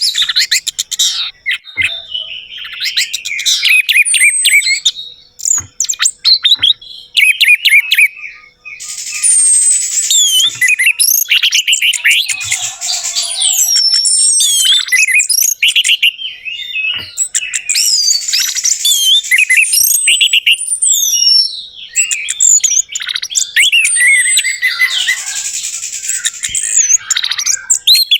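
Orange-headed thrush (anis merah) singing: a long run of fast, varied whistled phrases, with rising and falling sweeps and quick trills, broken by a few short pauses.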